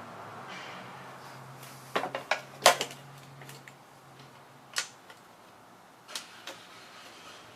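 A few sharp clicks and taps, a quick cluster about two to three seconds in and single ones later, from small plastic and metal parts being handled.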